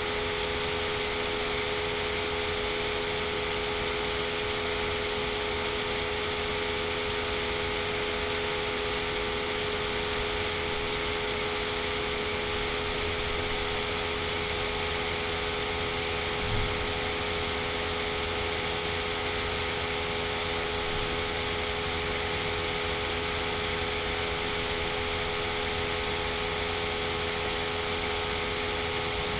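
Steady background hum and hiss, with a few constant tones, like a fan or motor running, unbroken throughout; a single soft low thump about halfway through.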